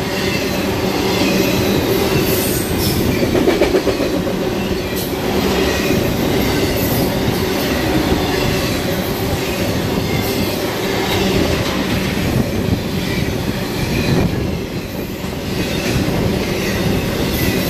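Intermodal freight train rolling past at close range: a steady, loud rumble of wheels on the rails with occasional clicks.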